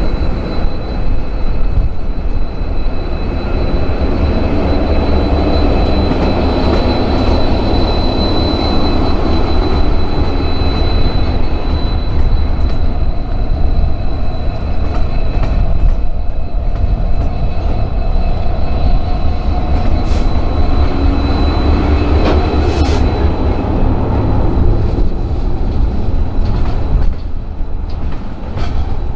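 Freight train rolling past: a heavy low rumble of the cars on the track with a thin, steady high squeal of steel wheels on the rail, strongest in the first half. A couple of sharp clicks come about two-thirds through.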